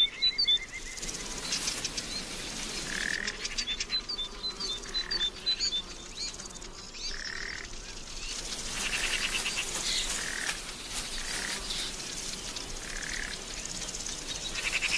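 Birds calling and insects chirping: a short call repeats every second or two over faint, rapid insect trills.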